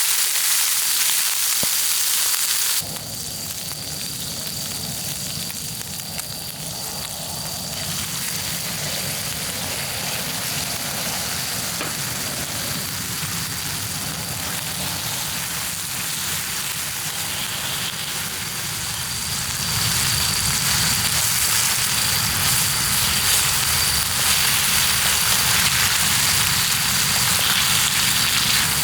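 Food sizzling over a campfire. About three seconds in it cuts off suddenly and gives way to steady rain hissing down with the fire burning, which grows louder again past the middle.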